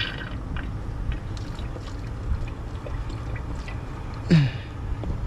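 Diesel fuel trickling from a semi truck's fuel filter drain into a bottle, a sample drawn to check the fuel for coolant contamination. A short sound falling in pitch comes about four seconds in, over a steady low rumble.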